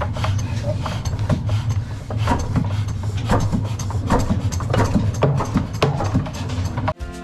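Large 60 hp Ruston Hornsby diesel engine running at a flour mill: a steady low hum with irregular knocks and clatter. It cuts off abruptly near the end, and music starts.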